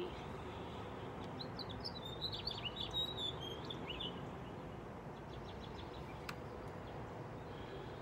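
Songbirds chirping, with a run of quick high chirps from about two to four seconds in, over a steady outdoor background noise.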